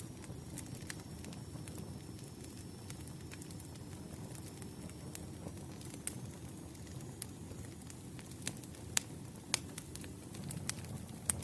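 Wood campfire burning with a steady low rumble of flames and scattered sharp crackles and pops, a few louder snaps in the second half.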